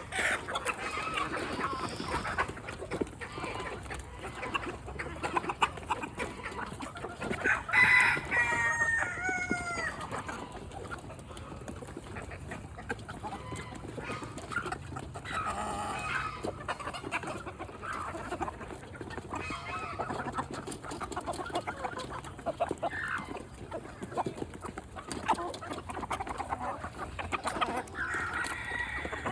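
Chickens clucking and pecking at food, with many short taps. About eight seconds in, a rooster crows once.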